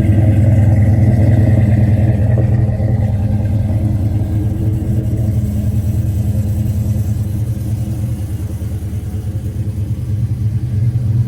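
Dodge Charger's Hemi V8 engine running steadily with a deep, low rumble, easing off a little about eight seconds in and then picking back up.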